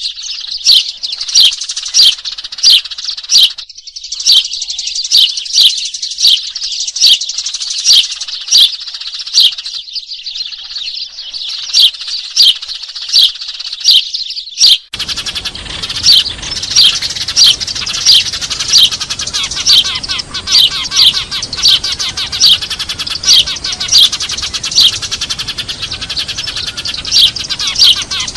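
Eurasian tree sparrows chirping noisily: a rapid, unbroken run of sharp, falling chirps, several a second, used as a lure call. About halfway through the sound changes abruptly to a denser chatter over a steady hiss, as if a new recording were spliced in.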